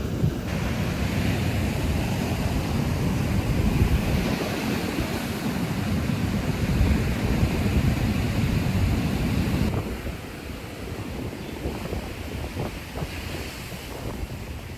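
Sea waves washing onto a sandy beach, with wind buffeting the microphone in a low rumble. The sound drops off sharply about ten seconds in, leaving quieter surf with a few small knocks.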